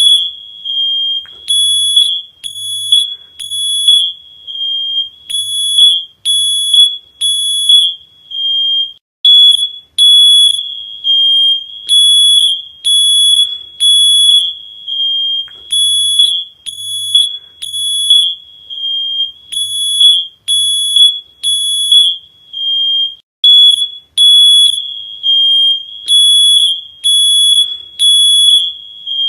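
Smoke alarm sounding: a loud, piercing high-pitched beep, repeated about once a second with short pauses between runs of beeps.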